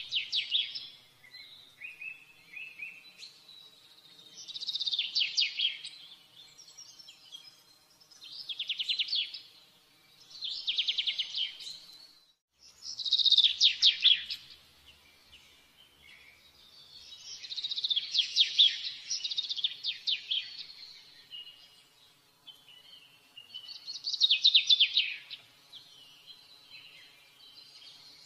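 A songbird singing: short, rapid trilled phrases, high in pitch, repeated every two to four seconds.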